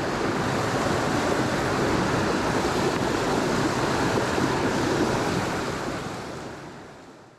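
Steady rush of a mountain stream's flowing water, fading out near the end.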